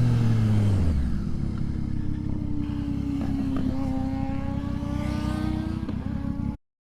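Motorcycle engine, its pitch falling over the first second as it slows, then running at a steady, slightly wavering pitch. The sound cuts off suddenly near the end.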